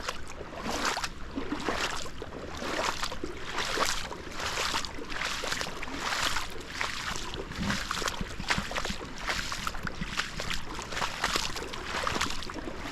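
Footsteps wading and sloshing through shallow floodwater, about two steps a second, over a steady rush of water.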